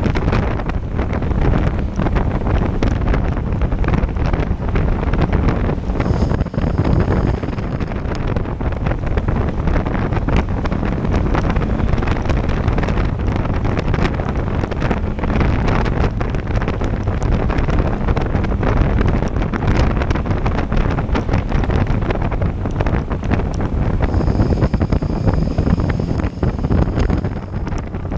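Heavy wind buffeting on the microphone of a moving motorcycle, steady and unbroken, with the motorcycle's engine and road noise underneath.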